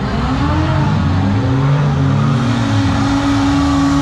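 Several autocross derby cars' engines revving together on a dirt track, their overlapping pitches rising and falling as the cars accelerate and back off. In the second half one engine holds a steady pitch.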